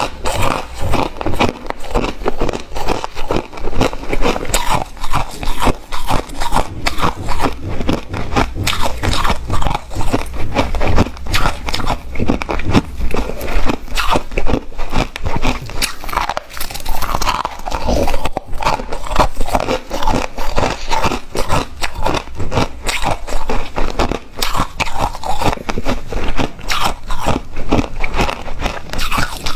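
A person biting and chewing ice close to the microphone, with continuous rapid crunching.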